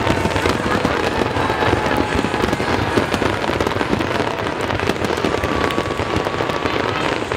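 Fireworks finale barrage: a dense, continuous run of bangs and crackles with no let-up.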